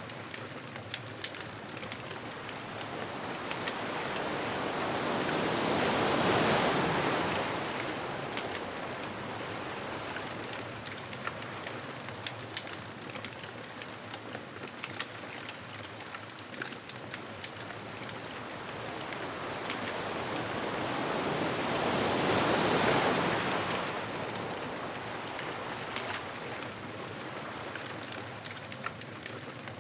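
Ocean waves washing onto a beach, two waves swelling and breaking about six seconds in and again past twenty seconds, over a steady wash of surf. Small sharp crackles and pops from a wood bonfire run through it.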